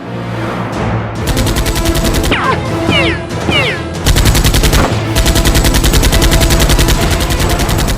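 Rapid automatic gunfire, a fast even stream of shots that starts about a second in and gets louder about four seconds in, over background music. A few falling whistling tones pass through it partway.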